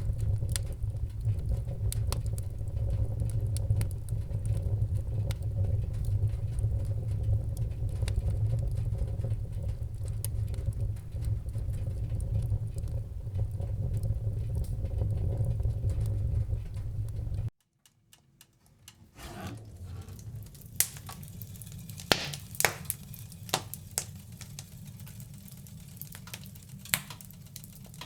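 Wood fire crackling in a fireplace, over a steady low rumble with faint small crackles. About two-thirds of the way through the sound cuts out abruptly for a second or so, then comes back without the rumble as sparser, sharper crackles and pops.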